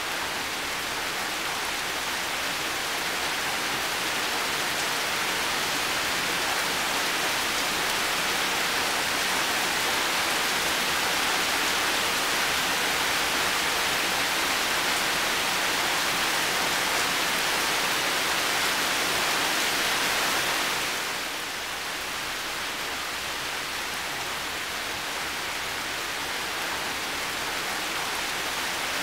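Heavy rain falling steadily: a dense, even hiss with no separate drops standing out. It eases slightly and turns a little duller about two-thirds of the way through.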